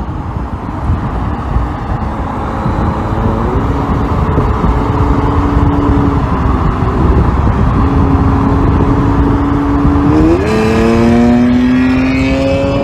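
Hyundai Grandeur TG Q270's V6 running through a JUNBL aftermarket full exhaust under throttle. The engine note climbs slowly, jumps up sharply about ten seconds in as the revs rise quickly, then keeps climbing.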